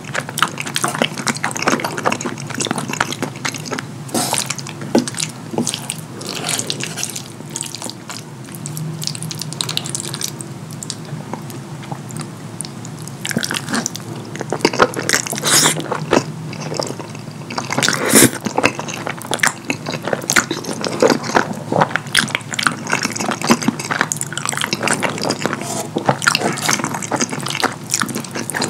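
Close-miked wet chewing and smacking of saucy fettuccine, with many short sticky mouth clicks and slurps.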